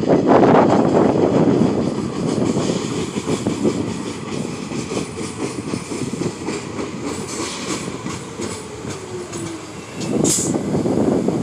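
R46 subway train running along the rails, wheels clattering over the joints, with a falling motor whine in the second half as it slows. A short sharp hiss comes about ten seconds in.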